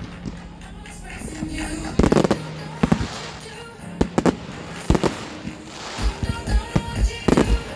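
Fireworks bursting in a display: sharp bangs every second or so, with a quick run of smaller pops after about six seconds, over pop music playing for the show.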